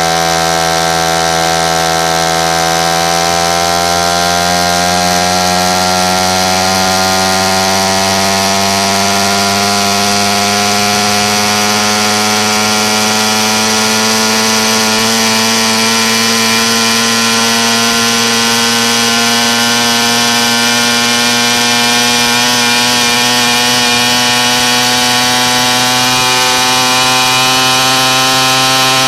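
Pocket bike's small engine running continuously, its pitch climbing slowly and steadily as the revs build.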